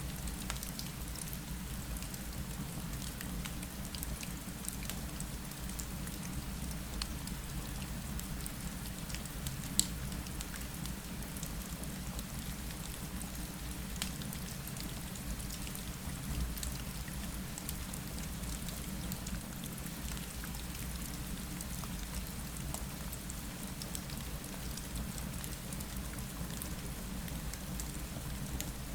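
Steady rain falling on a window, with a low rumble underneath and a few sharp clicks, the loudest about ten seconds in.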